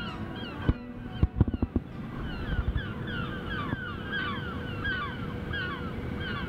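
Many birds calling outdoors, with a dense chatter of short, overlapping, downward-sliding calls. A few sharp low thumps come about a second in.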